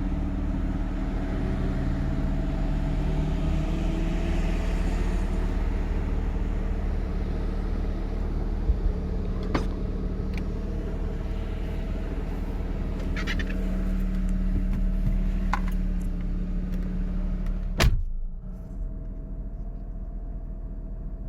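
Mazda RX-7 FD3S rotary engine idling steadily, with a few light clicks of someone getting into the car and a car door shutting hard about 18 seconds in, after which the idle sounds muffled from inside the cabin.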